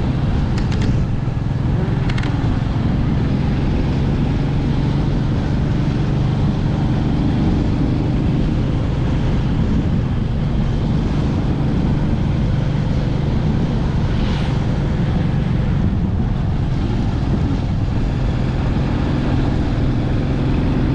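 Motorcycle engine running steadily at an even speed while riding, with road and wind noise.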